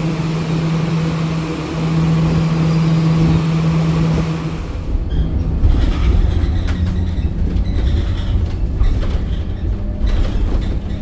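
Scania K270UB city bus's diesel engine running with a steady hum. About five seconds in, the sound turns to a deeper, uneven rumble with scattered rattles and clicks.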